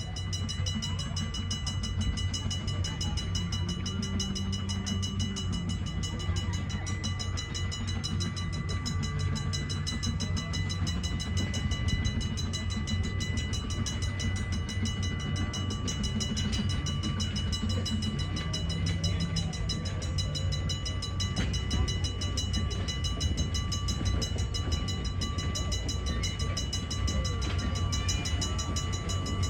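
Two-foot-gauge train running along the track with a steady low rumble.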